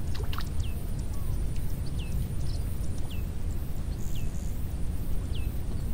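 A bird repeating a short, falling whistle about once a second, over a steady low outdoor rumble.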